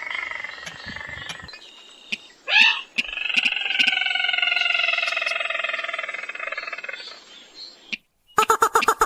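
Paddy-field rail calls: long, drawn-out calls that fall slightly in pitch, broken by a short rising squeal. Near the end comes a fast run of short, sharp notes.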